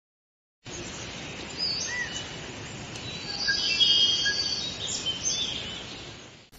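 Birds chirping and whistling over a steady hiss of outdoor ambience. It starts suddenly, is busiest in the middle and fades out near the end.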